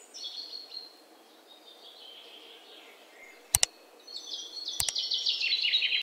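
Songbirds chirping, faint at first, then a fast run of quickly repeated chirps building over the last two seconds. Two sharp clicks, each doubled, come about a second apart after the middle.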